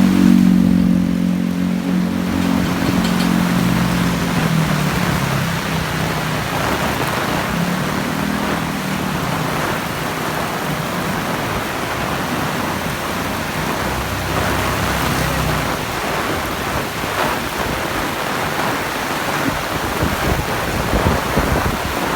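Heavy rain falling steadily, with a low engine drone from a passing vehicle strongest in the first few seconds and fainter twice more later on.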